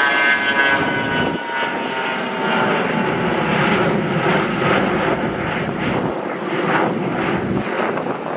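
Airliner passing close by, its engine whine falling in pitch over the first few seconds, then steady engine noise with wind buffeting the microphone.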